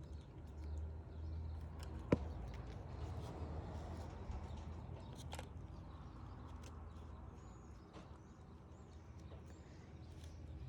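Scattered small clicks and taps of metal parts being handled while refitting a garage door opener's carriage, with one sharp click about two seconds in, over a steady low hum.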